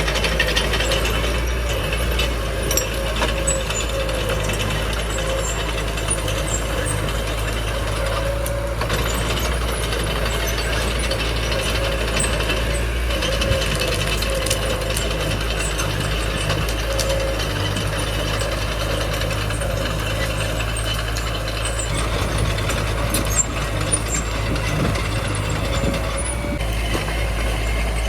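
Small bulldozer working: its diesel engine runs steadily while the steel crawler tracks and machinery clank and rattle continuously.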